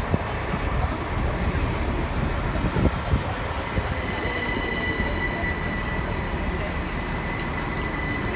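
Class 387 electric multiple unit rolling into the platform and slowing, with a steady rumble of wheels on rails and a few knocks. A high steady squeal from the wheels or brakes sets in about halfway through as the train slows.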